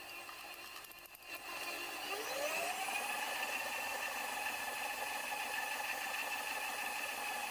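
Stand mixer motor running. It dips briefly, then speeds up with a rising whine about two seconds in and settles into a steady whir while it mixes a stiff dough.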